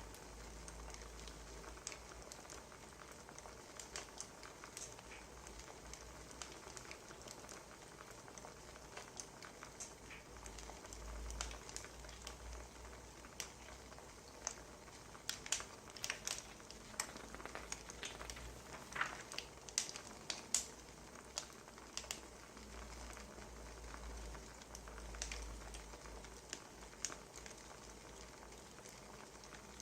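Wood fire crackling: irregular sharp pops and snaps over a faint steady hiss, busier and louder in the middle stretch.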